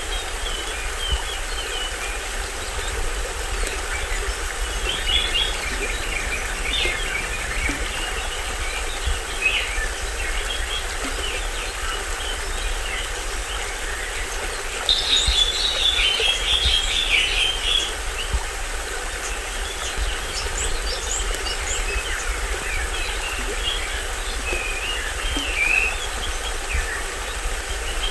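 Small stream waterfall running steadily, with forest birds chirping and calling over it; a loud burst of chirping comes about halfway through.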